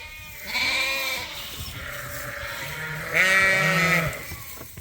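Sheep bleating in the barn: two long bleats, the louder one about three seconds in, with other sheep calling behind them.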